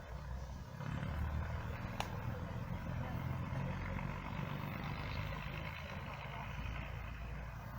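Steady low rumble of a train on the heritage railway, getting louder about a second in, with one sharp click about two seconds in.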